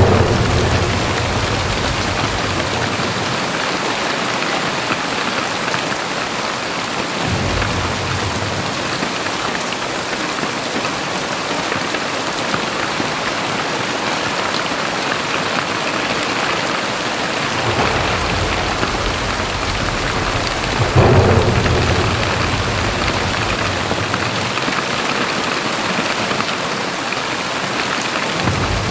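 Very heavy rain pouring steadily, with several deep low rumbles swelling in and out, the loudest about two-thirds of the way through.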